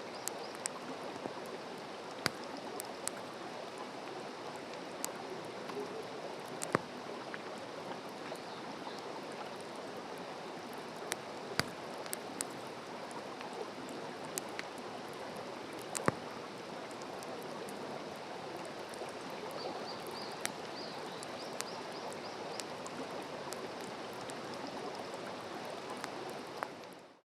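Open wood campfire burning with a steady hiss and irregular sharp crackles and pops, with faint bird chirps now and then. The sound fades out near the end.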